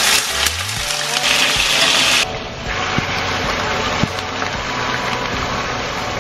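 Marinated chicken breast sizzling in hot oil in a frying pan as the pieces are laid in. The sizzle is loudest for the first two seconds, then settles to a steadier frying hiss.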